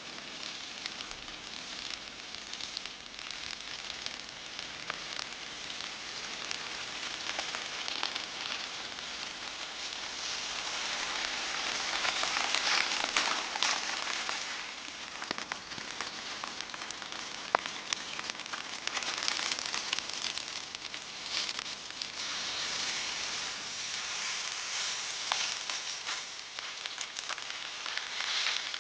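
Wagyu steak sizzling over an open campfire, with scattered crackling pops from the burning wood. The sizzle swells louder about twelve seconds in, and a single sharp pop stands out a few seconds later.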